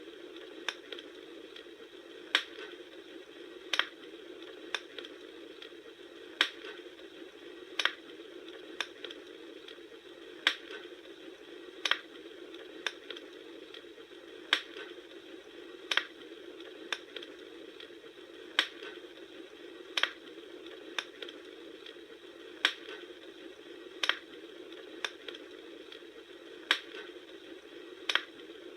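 Bonfire crackling: sharp pops at an even spacing of about one every second and a half, with fainter snaps between, over a steady low hiss.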